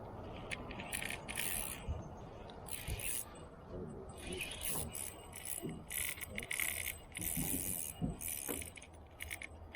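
Spinning reel's drag buzzing in short, irregular bursts as a hooked jewfish takes line during the fight, over a steady low rumble.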